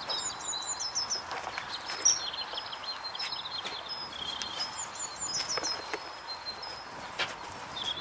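Birds chirping and singing: scattered short high notes and twice a quick run of about six falling notes, over a steady background hiss with a few faint clicks.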